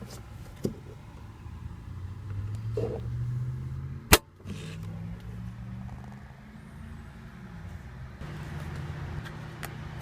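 Mercedes-Benz SL550's twin-turbo V8 idling with a steady low hum that swells briefly about two seconds in, and a single sharp click about four seconds in, with a few fainter clicks around it.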